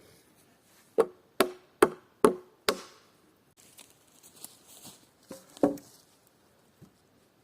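Hammer blows on wood: five quick, sharp strikes, then two lighter ones near the end, like a nail being driven into a board.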